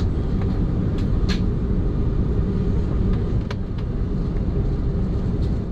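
Aircraft cabin noise of an Airbus A330 taxiing: a steady low rumble from its Rolls-Royce Trent 700 engines at taxi power and the rolling airframe, with a few light clicks.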